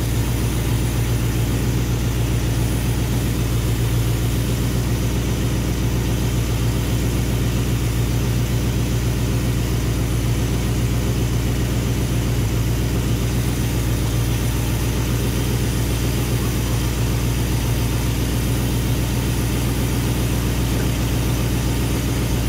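Mopar V8 idling steadily with the air cleaner off and the carburetor open; the running note holds even throughout, with no revving.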